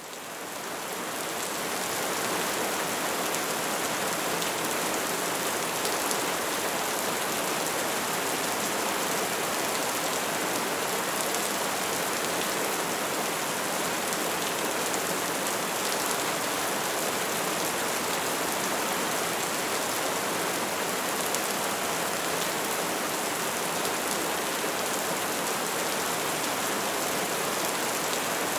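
Steady soft rain: an even hiss of falling drops with faint scattered patters, fading in over the first two seconds and then holding level.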